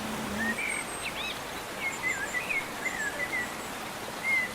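A songbird singing a quick run of short, warbling chirps with little rising and falling slides, over a steady background hiss.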